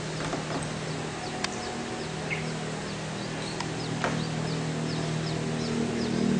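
Small birds chirping in a quick series of short, high, falling notes, about two a second, over a steady low mechanical hum, with a few sharp clicks.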